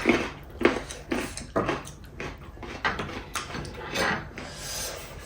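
Close-up mouth sounds of eating chicken biryani: irregular chewing and lip smacks, a few every second.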